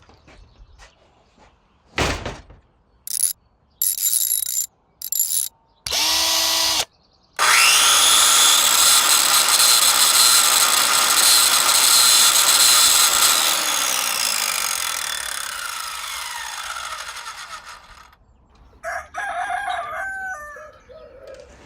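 A few short knocks and bursts, then a power tool spins up with a rising whine, runs steadily for about five seconds, and winds down slowly with a falling whine.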